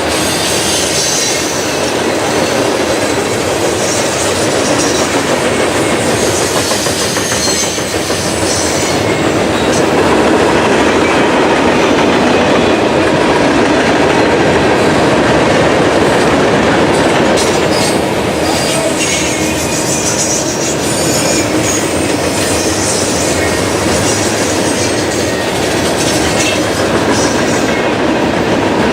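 Freight train cars rolling past at close range, a steady heavy rumble with wheels clattering over the rail joints and some high wheel squeal.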